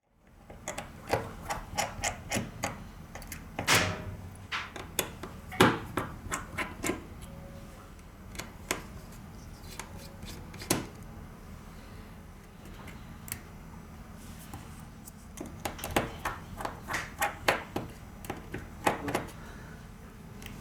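Small hand tools clicking and tapping against a phone's metal and plastic parts on a workbench, in irregular clusters, over a steady low hum.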